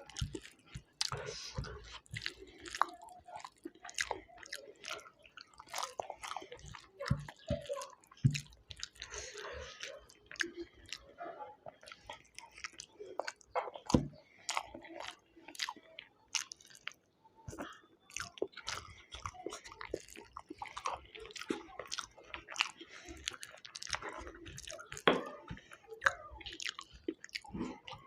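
A person chewing and biting food close to the microphone: wet mouth clicks and smacks with occasional crunches, coming irregularly.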